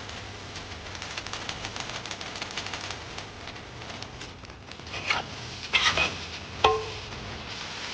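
Greens stir-frying with pork lard cracklings in a pan: a steady sizzle with fine crackling, then a few louder scrapes and knocks of a utensil about five and six seconds in, and a short ringing clink just before seven seconds.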